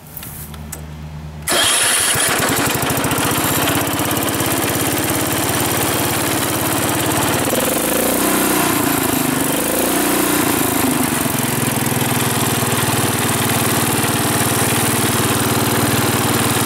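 1974 Wheel Horse B-80 garden tractor's single-cylinder Kohler engine being cranked by the electric starter and catching about a second and a half in, then running loudly. Its speed wavers for a few seconds in the middle before it settles into a steady run.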